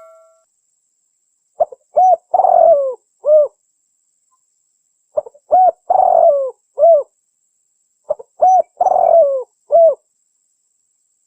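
Spotted dove (tekukur) cooing: three phrases of several coos each, about three seconds apart, each with a longer, drawn-out note in the middle.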